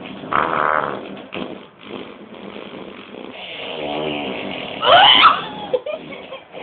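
A run of buzzy fart noises: a short one about half a second in and a longer, lower one around four seconds. A high squealing sound that glides up and down about five seconds in is the loudest moment.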